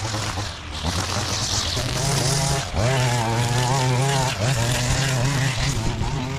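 A small petrol engine of yard equipment running steadily, its pitch wavering slightly with load, over a hiss of air.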